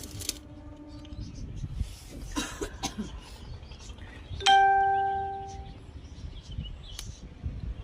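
A single bell-like ding about four and a half seconds in, ringing out and fading over about a second.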